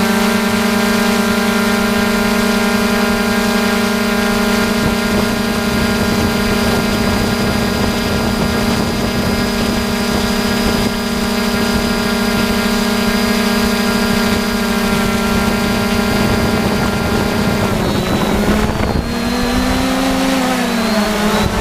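3DR Iris+ quadcopter's electric motors and propellers whining at a steady pitch as it hovers, then the pitch wavers up and down near the end as the motor speeds change.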